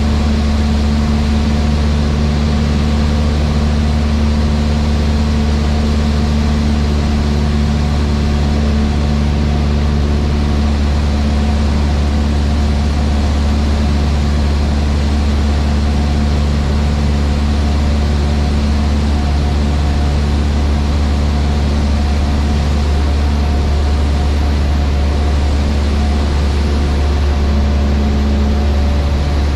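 Cessna 152's four-cylinder Lycoming O-235 engine and propeller running steadily, a loud, even drone heard inside the cabin.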